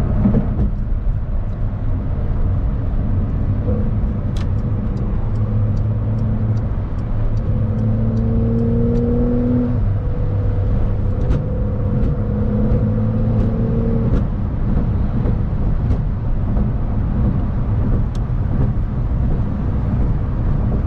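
Porsche 911 Carrera 4 GTS twin-turbo flat-six running under way at a steady cruise, with constant road and tyre rumble; the engine note rises gently about halfway through, then holds. A run of light, evenly spaced ticks sounds for a few seconds in the first half.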